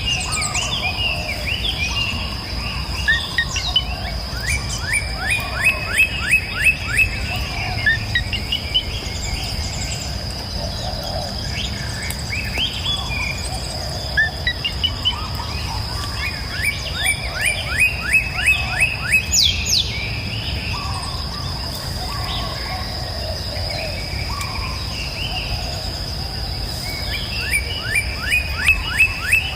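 Songbirds singing. One bird repeats a fast phrase of quick falling notes about every eleven seconds, among scattered chirps, over a steady high insect drone and a low background rumble.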